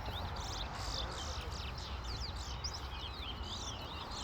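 Songbirds singing fast, twittering phrases of quick rising and falling whistled notes that overlap without a pause, the songs counted one by one in a singing contest. A steady background hiss and low rumble lie underneath.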